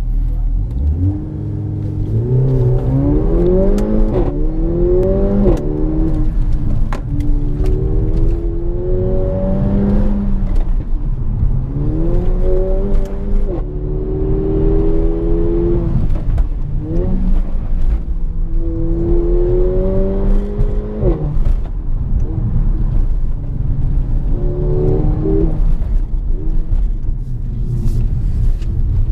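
Mercedes car's engine heard from inside the cabin, pulling hard through the gears in several runs: the pitch climbs, drops at each upshift and climbs again, easing off between runs, over a steady low rumble.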